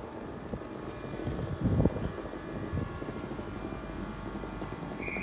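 A train standing at the platform, its engine and equipment giving a steady drone with faint whines, and one dull thud about two seconds in.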